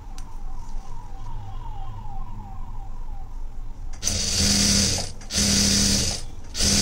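Sewing machine stitching a seam on a blouse. After a quieter stretch it runs fast in three bursts from about four seconds in, with short stops between them.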